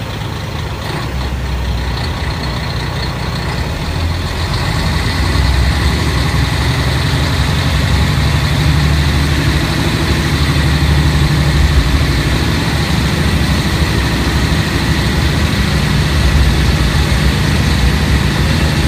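Diesel engine of a Kashima Rinkai Railway 6000-series railcar heard from inside the passenger cabin. Its low drone grows louder over the first five seconds or so, then runs steadily under power.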